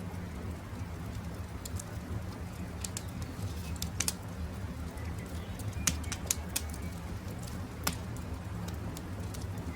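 Campfire crackling, with sharp pops about four seconds in, twice around six seconds and once near eight seconds, over a steady low rumble. Faint birdsong.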